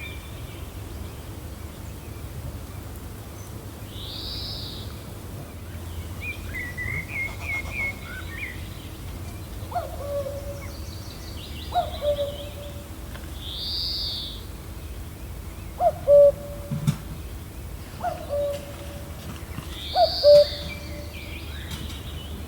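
Gentle wind rumbling steadily under several birds calling: a few high, arching chirps, a short twittering run, and from about halfway on a short hooting call repeated roughly every two seconds.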